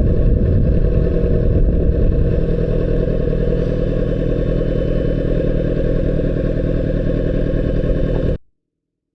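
Honda CBR600RR inline-four sport bike running on the move, heard dull and muffled under heavy low wind noise on the microphone. The sound cuts off suddenly about eight seconds in.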